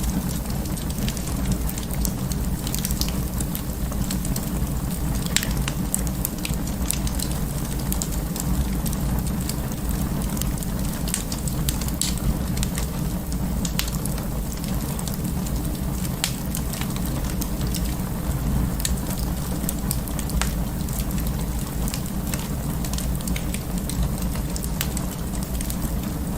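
Wood fire in an open fireplace crackling steadily: a low rumble of the flames with frequent sharp pops and snaps scattered throughout.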